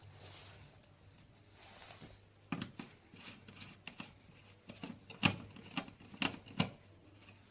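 Small hard parts being handled during a PC build: a run of about eight light clicks and knocks, the loudest a little past halfway, after a couple of seconds of soft rustling.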